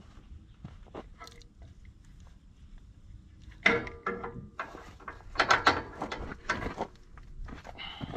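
Metal clicks and clanks of hydraulic hose quick-couplers (Pioneer-type fittings) being handled and pushed onto a tractor grapple's lines. The sound is a scatter of small clicks, with louder clattering bursts in the second half.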